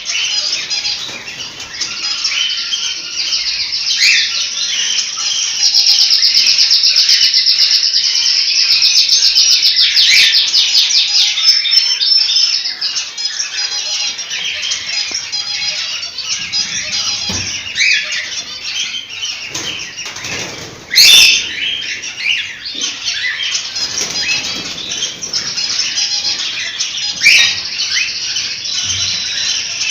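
Several cockatiels chirping and calling together, with a loud stretch of rapid trilled chirps about a fifth of the way in. A short, loud burst about two-thirds through, which may be wing flapping.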